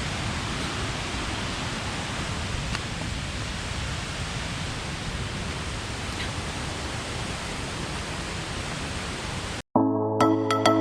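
Steady rush of flowing forest water, like a stream or waterfall. About a second before the end it cuts off abruptly and electronic background music begins.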